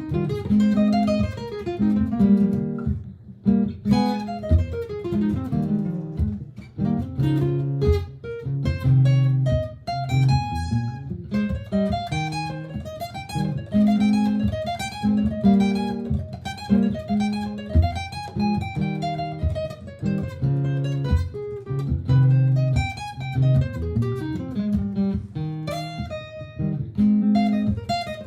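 Martin GPCPA4 acoustic guitar playing through a looper: a repeating looped part of low sustained notes, with picked melodic lines improvised over it.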